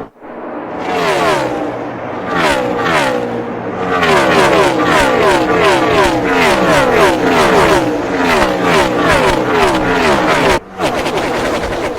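NASCAR Cup cars' V8 engines at full throttle passing one after another, each engine note falling in pitch as it goes by. From about four seconds in, a tight pack streams past in quick succession.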